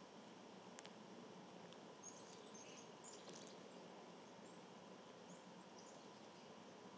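Near silence with a steady faint hiss, broken by a scatter of faint, very high, short bird chirps, most of them about two to three seconds in.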